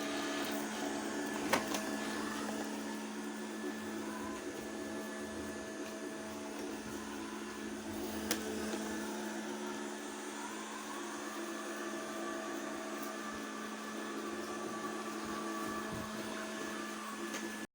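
Robot vacuum cleaner running with a steady motor hum. There is a sharp knock about a second and a half in and a fainter one about eight seconds in.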